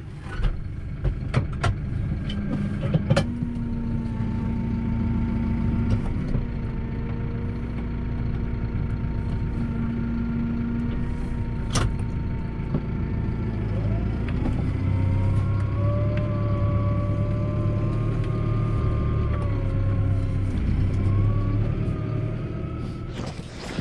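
A tractor engine running steadily, then revving higher about two-thirds of the way through, with a few knocks in the first few seconds.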